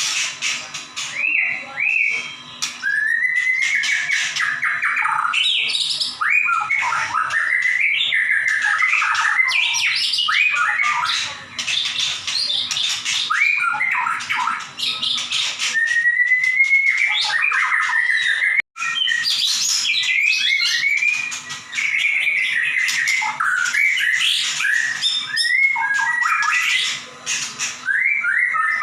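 White-rumped shama (murai batu) in full, loud song ('gacor nembak'): a non-stop run of varied whistled phrases and sliding notes broken up by rapid, sharp 'shooting' bursts. The song cuts out for an instant about two-thirds of the way through.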